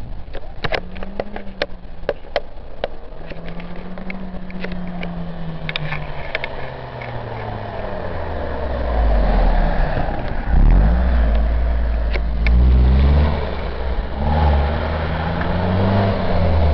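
Exhaust of a Mercedes E200 Kompressor's supercharged four-cylinder through a Reuter sport rear silencer, revved several times; the pitch rises and falls with each rev, and the low exhaust rumble gets much louder in the second half. A scatter of sharp clicks in the first few seconds.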